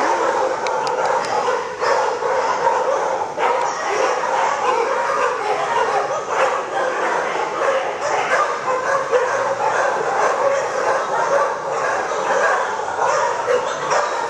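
Many dogs in a shelter barking and yelping at once, a loud continuous din with no pauses.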